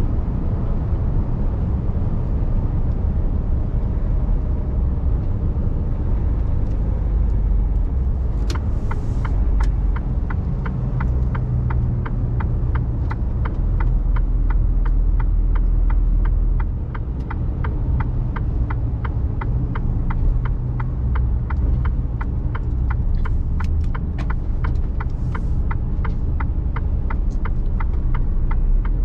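Mercedes Actros truck cab: steady low engine and road rumble. From about eight seconds in, a regular quick clicking runs on, typical of the turn-signal indicator, with two brief hisses of air.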